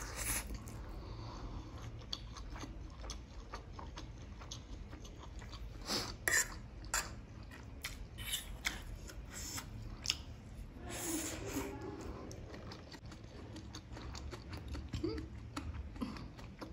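Close-miked eating sounds: chewing a mouthful of fried egg, with a metal fork clicking and scraping against a plate. Scattered sharp ticks from the fork are the loudest sounds.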